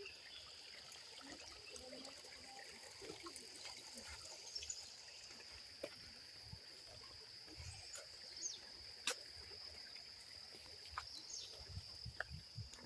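Faint, steady, high-pitched chirring of crickets, with a few sharp clicks and soft thumps scattered through it, clustering near the end.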